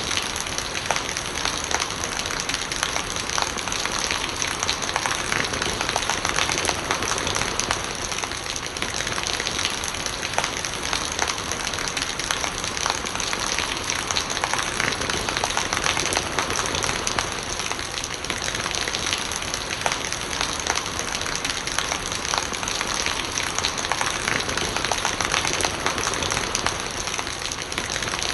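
Steady rain falling, with many small raindrop hits and rainwater gurgling as it runs.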